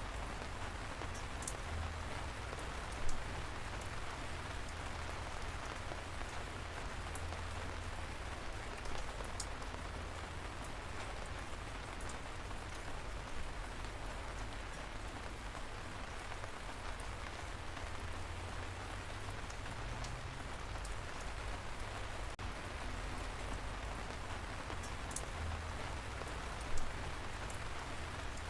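Gentle, steady light rain falling, a soft continuous patter with a few sharper single drops. Two are louder: one about three seconds in and one near the end.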